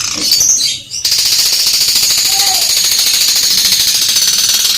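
Long-tailed shrike (cendet) singing a loud, very fast, harsh rattling chatter, with a brief break about a second in. This is the long 'fighting sparrow' song that the bird's keepers prize for its power.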